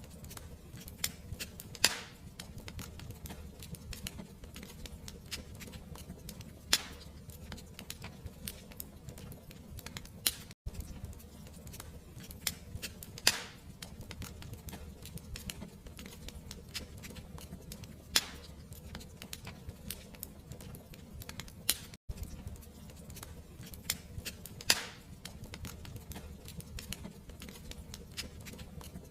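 Fireplace fire crackling steadily over a low rumble, with a sharp loud pop every five seconds or so. The sound cuts out for an instant twice, where the recording loops.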